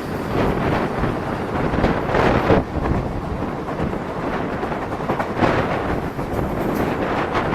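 Passing express passenger train rumbling along the track at speed, with wind buffeting the microphone. Its horn is no longer sounding.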